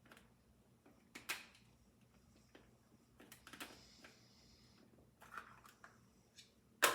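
Manual garlic chopper being worked and handled: a few short plastic clacks and scrapes, about two seconds apart, with the loudest sharp knock near the end.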